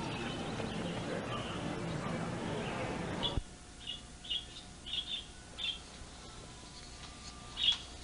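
A busy background wash cuts off suddenly about three seconds in. After that a bird chirps repeatedly, short high chirps about every half second.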